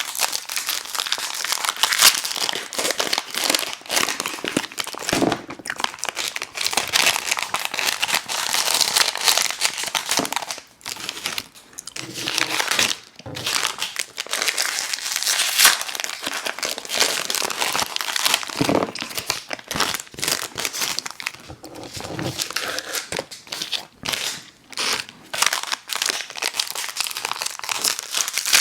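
Candy wrappers crinkling steadily as they are handled and torn open, with a few brief pauses.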